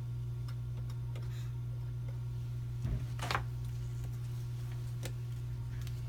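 Light clicks and taps from small hand tools, with a short louder scrape about three seconds in, over a steady low hum.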